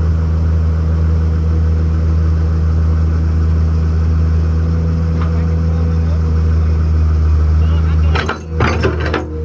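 Diesel engine of a heavy earthmoving machine running steadily at a low, even pitch. Near the end, about a second of sharp clattering cuts across it.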